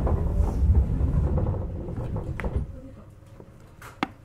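Low rumble inside a JR Kyushu 817 series electric train car at a station, dying away about three seconds in, with a knock near the middle and a single sharp click near the end.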